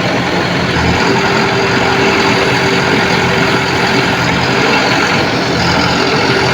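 Heavy diesel engine of a tractor or JCB machine running steadily, with a steady whine over it for a few seconds from about a second in.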